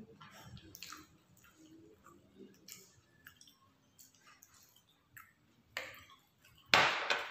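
Close-miked chewing of grilled chicken satay, with small wet clicks of the mouth. Near the end comes a loud sharp clack as the sauce bowl is set down on the glass tabletop.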